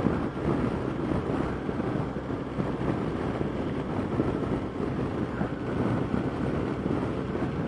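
Steady wind noise buffeting the microphone over the rumble of a 2006 Yamaha FJR1300A's inline-four engine and its tyres on a wet road, ridden at speed in heavy rain.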